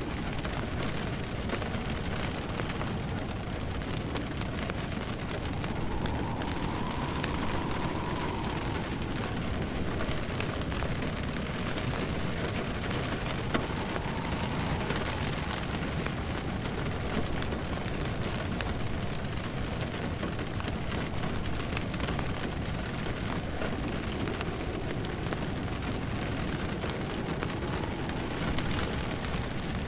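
Steady rain mixed with a wood fire crackling in a fireplace, many small pops over the rain's hiss and one sharper snap about halfway through.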